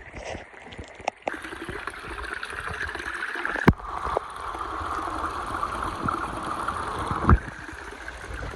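Shallow hill stream running and gurgling over stones, growing louder about a second in, with a few sharp knocks, the loudest about three and a half seconds in.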